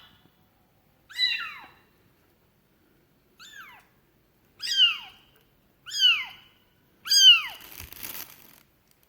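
Young kitten mewing: five short, high-pitched calls, each falling in pitch, about a second apart, the last one the loudest.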